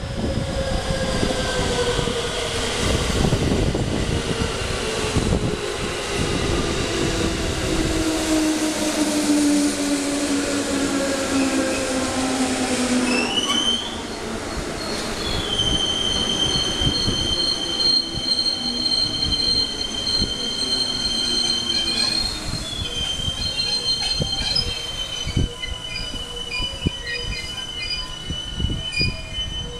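JR West 223 series 6000 and 221 series electric train braking into a station. Several motor tones glide steadily down in pitch as it slows, with knocks from the wheels over the track. About halfway through, high steady squealing from the brakes sets in and holds as the train comes to a stop.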